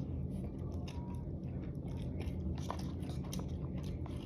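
Close-miked chewing and biting of spicy dry hot pot: irregular soft, wet mouth clicks and smacks as the food is chewed.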